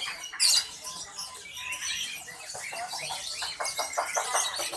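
Many caged songbirds chirping and calling at once, a dense overlapping chatter of high chirps and trills. A loud burst comes about half a second in, and a run of quick repeated notes near the end.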